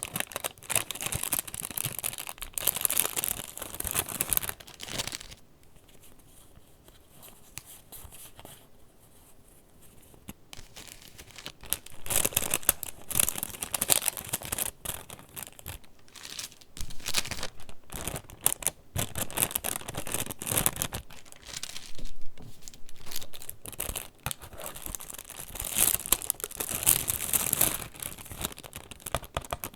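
Paper pages of a handmade junk journal being turned and handled, rustling and crinkling in bursts. There is a quieter lull from about 5 to 11 seconds in.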